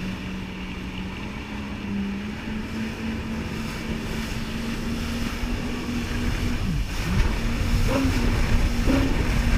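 Jet ski engine running at a steady pitch that edges up slowly, with a quick drop in revs and pick-up again about seven seconds in. Wind and water rush grow louder near the end.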